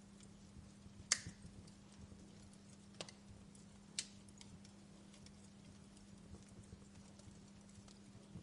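Wood fire crackling softly, with scattered small ticks and three sharper pops: about a second in, at three seconds and at four seconds. A steady low hum runs underneath.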